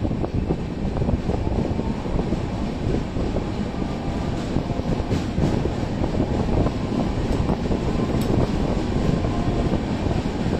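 Passenger train accelerating out of a station, heard from the coach: a steady rumble and rattle of the wheels on the rails.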